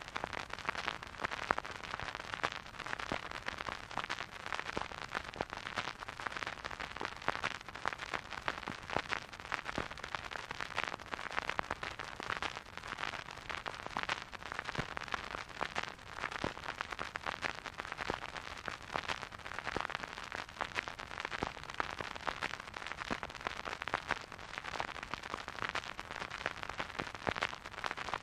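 Vinyl record surface noise from a spinning record player: a steady, dense crackle of small irregular clicks and pops over a soft hiss, with no music.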